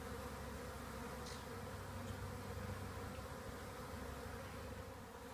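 A swarm of honeybees buzzing steadily around a hive box, many of them fanning their wings at the entrance.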